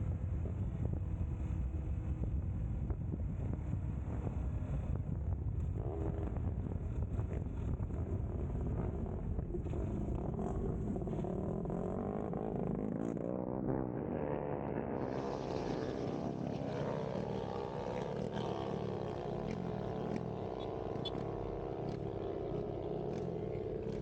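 Motorcycle engine running at speed under heavy wind rush, its pitch dipping and climbing through gear changes about halfway through, then rising steadily as it accelerates.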